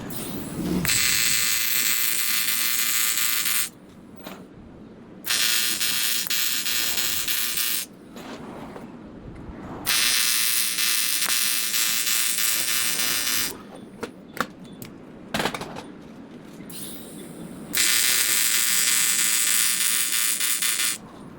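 AC TIG welding arc on aluminium intercooler pipe buzzing in four bursts of about three seconds each, with short pauses between beads and a few small clicks in the gaps.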